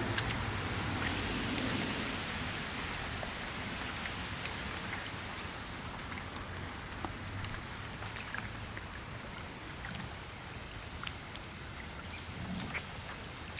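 Steady rain falling, an even hiss with scattered drips and drop ticks.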